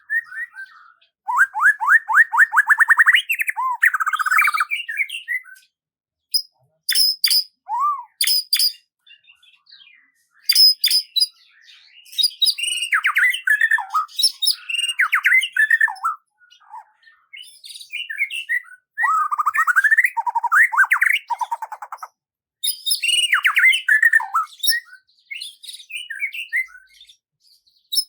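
Songbird singing in phrases of fast trills, warbles and sharp chirps, with pauses of a second or two between phrases.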